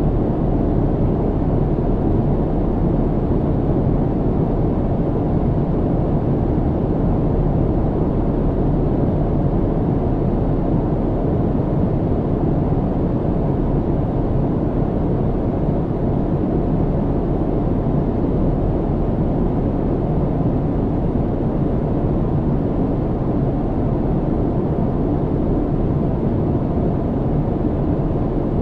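Steady low rumble of an airliner cabin in flight: engine and airflow noise, deep and even with no changes.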